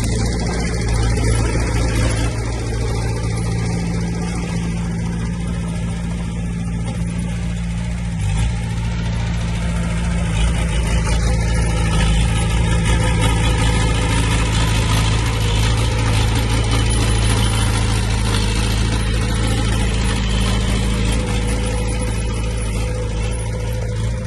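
Heavy diesel engine of earthmoving machinery running steadily at a constant speed, with a brief dip about eight seconds in.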